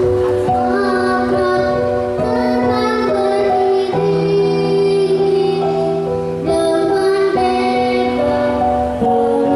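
A young girl singing a children's song in long held notes over instrumental accompaniment.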